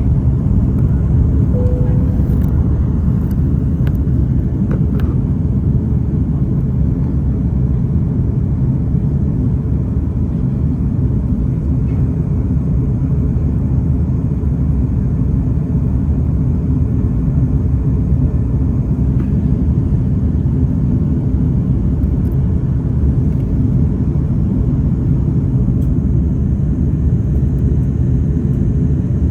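Steady low rumble inside a jet airliner's cabin in flight, from engine and airflow noise during the descent, with a few faint clicks in the first few seconds.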